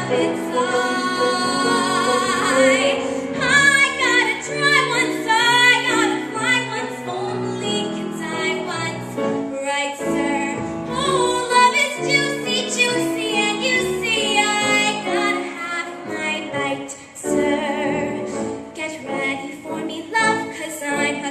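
A woman singing a show tune with vibrato and long held notes over instrumental accompaniment.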